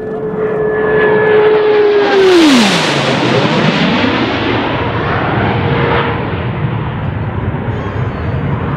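Two U.S. Navy F/A-18 Hornet jets making a low, high-speed knife-edge pass in opposite directions. A steady engine whine falls sharply in pitch about two and a half seconds in as they go by, the roar loudest at that moment, then a lower roar carries on as they move away.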